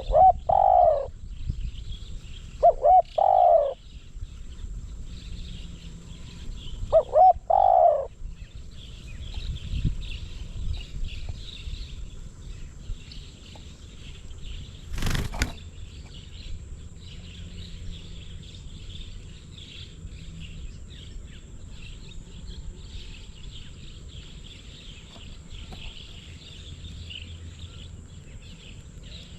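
Spotted dove cooing: three short phrases of its deep 'coo-croo' call in the first eight seconds, then silence from the bird. A steady high chirring of insects or small birds runs underneath, with one sharp click about 15 seconds in.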